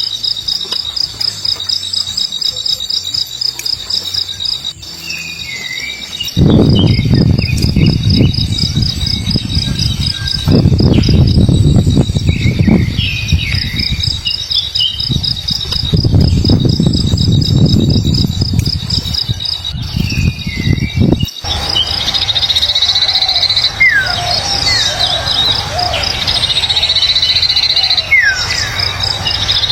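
Steady, fast-pulsing cricket-like insect trill with short bird chirps over it. From about six seconds in, a loud low rumbling noise covers the lower range until it cuts off suddenly about twenty-one seconds in. After that, short falling whistled bird calls repeat every couple of seconds.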